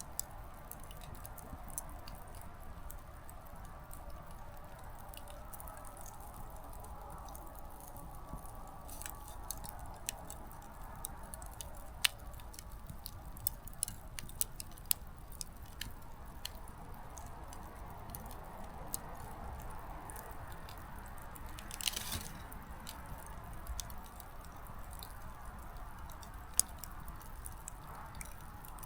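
Small wood fire burning low: a soft steady hiss of flame with scattered sharp crackles and pops from the firewood. A brief louder hissing flare comes about two-thirds of the way through.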